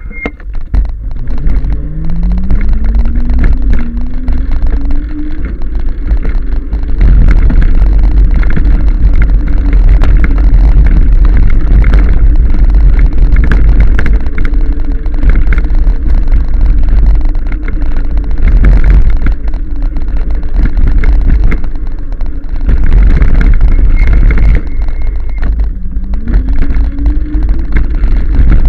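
Riding a 1000-watt e-bike, with heavy wind buffeting on the microphone and the motor's whine rising in pitch as it speeds up, about a second in and again near the end, then holding steady at speed.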